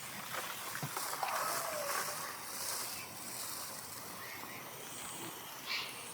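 Steady hiss of a garden hose sprayer spraying a beneficial-nematode mix over garden soil.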